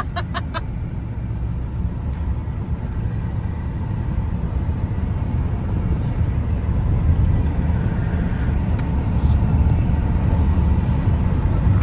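Inside the cab of a pickup truck on the move: a steady low rumble of engine and road that grows gradually louder as the truck picks up speed.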